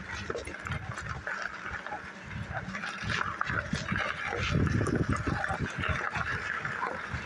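Muffled rubbing and bumping of shirt fabric against a microphone carried in a shirt pocket during a bike ride, with uneven low thumps and a rough hiss of wind and riding noise.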